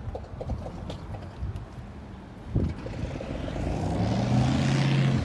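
An engine running steadily, growing louder over the last two seconds and then cutting off abruptly, after a single thump about halfway in.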